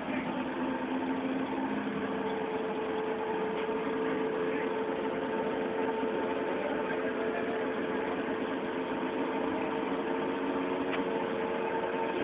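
Forklift engines running steadily at idle, a constant engine hum with no change in pitch.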